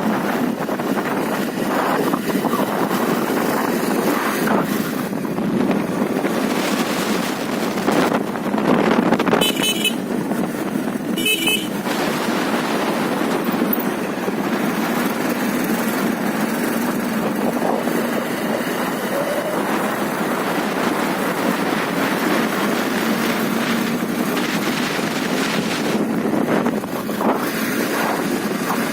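Motorcycle running at road speed, its engine and road noise mixed with wind buffeting the microphone. About a third of the way in come two short beeps, a couple of seconds apart.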